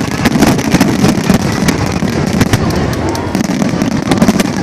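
A fireworks finale barrage: a dense, continuous run of bangs and crackles from many shells bursting in quick succession.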